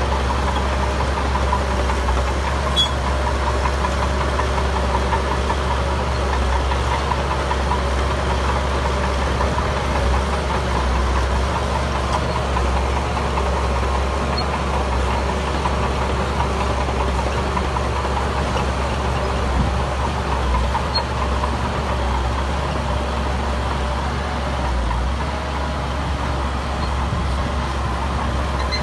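Heavy diesel engine of construction machinery running steadily with a continuous low rumble.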